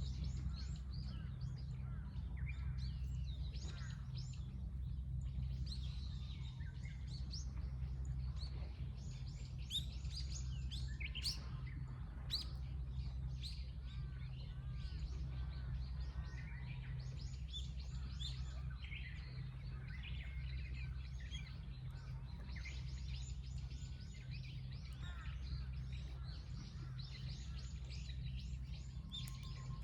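Several wild birds chirping and singing, with short overlapping calls and trills throughout, over a steady low rumble.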